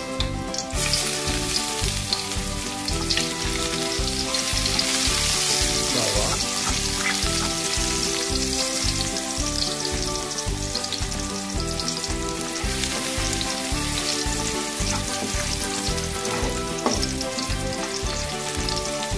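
Minced garlic and ginger sizzling in hot oil in a wok, with a spatula now and then stirring and scraping. The sizzle swells for a few seconds in the middle. Background music with a steady beat plays underneath.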